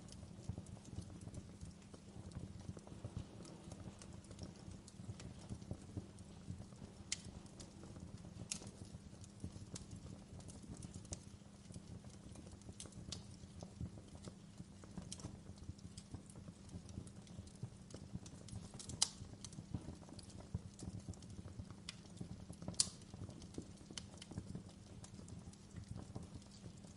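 Wood fire crackling, with irregular sharp pops and snaps over a low steady rumble; two louder pops come about two-thirds and five-sixths of the way through.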